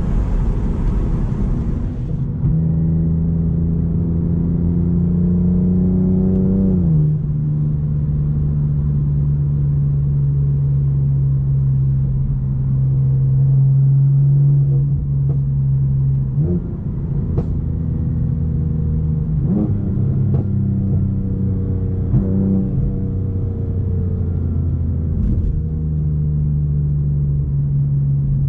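BMW M4 with an Akrapovic decat exhaust running at steady low revs, a deep continuous exhaust drone. About seven seconds in the pitch rises briefly and then steps down, after which the drone holds steady.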